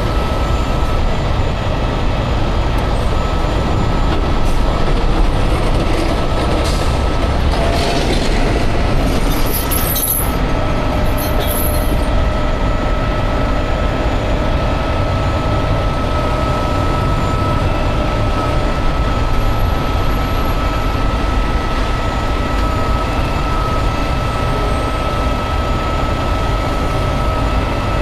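Heavy wrecker's diesel engine running steadily under load, with a steady high whine over the low rumble and a few brief clanks about seven to ten seconds in.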